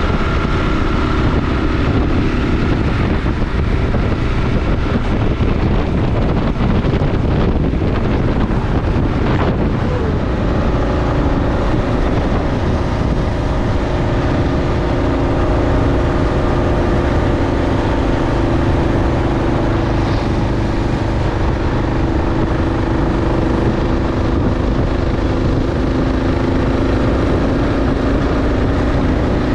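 Kawasaki KLR 650's single-cylinder engine running steadily on the move, with wind rushing over the microphone. The engine note shifts slightly about ten seconds in.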